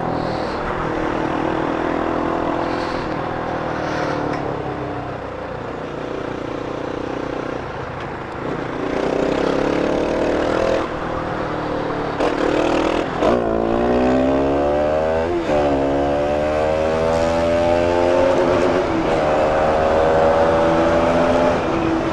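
Bajaj Pulsar RS200's single-cylinder engine running under way, with wind rushing past. In the second half it accelerates, the pitch rising and dropping sharply at two gear changes, then climbing again.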